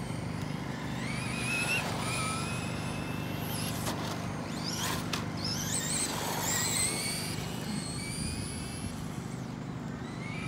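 Electric motors and gears of Redcat Lightning STK RC stock cars whining as they race, the pitch rising repeatedly as the cars accelerate down the straights and falling away as they slow for the corners.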